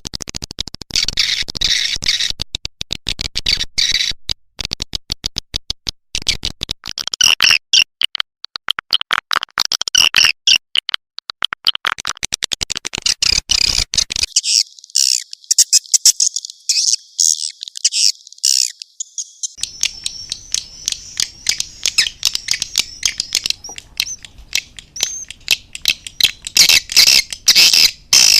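Recorded swiftlet lure call, the dense, rapid chittering and chirping of edible-nest swiftlets played to draw the birds into a nesting house. For several seconds midway only the high, thin part of the calls is heard.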